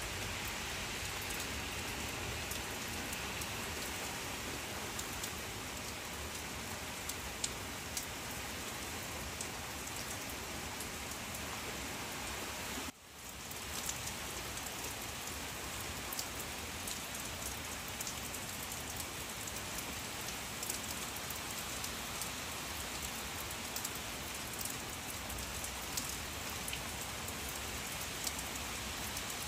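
Steady rain falling on leaves, with scattered close drops ticking. About thirteen seconds in it drops out for a moment and fades back in.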